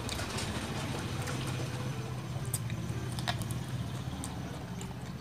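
Mouth sounds of chewing green mango with sautéed shrimp paste: a few sharp wet clicks and smacks, over a steady low background hum.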